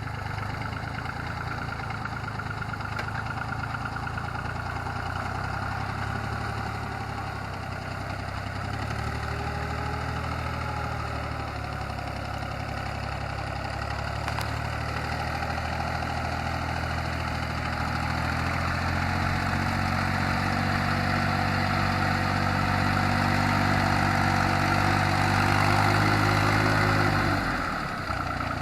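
Yanmar YM3000 tractor's diesel engine running steadily while working soil. It grows louder in the latter part, then its pitch drops sharply near the end as it throttles back.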